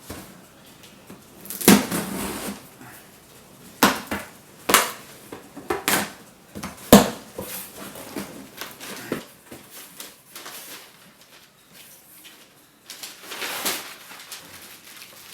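Things being handled and set down: a string of sharp knocks and clatters, about five loud ones in the first seven seconds, then a rustle near the end.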